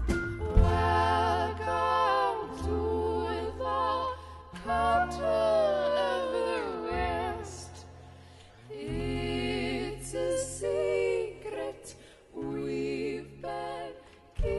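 Folk band playing live: women's voices singing in harmony with vibrato over held low bass notes, the music thinning out briefly a couple of times.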